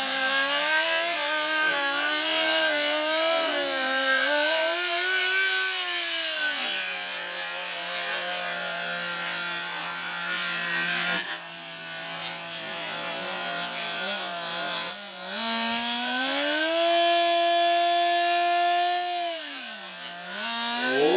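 Small nitro RC engine of a CEN Genesis GST 7.7 monster truck running with a high buzz, revving up and down, then holding a steady idle for several seconds before revving up again and dropping near the end.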